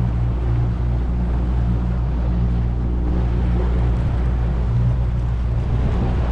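Boat motor running at a steady low hum, with water and wind noise over it.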